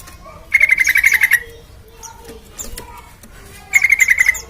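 Yellow-vented bulbul (trucukan) singing: two short bursts of fast, rapidly repeated bright notes, one about half a second in and one near the end, with softer scattered chirps between.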